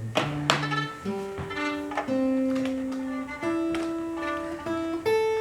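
Acoustic guitar playing a slow melody of single plucked notes that ring on, with one longer held note about two seconds in.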